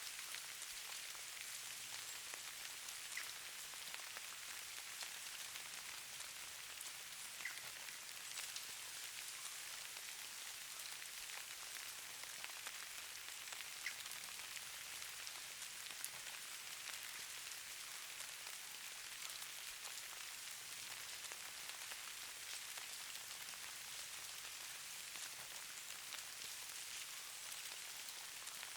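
Falling precipitation pattering softly on surfaces: a faint, steady fine hiss with scattered tiny ticks.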